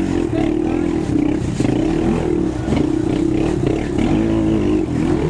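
Racing quad's engine running hard under throttle, its pitch wavering up and down as the throttle is worked, with scattered short knocks.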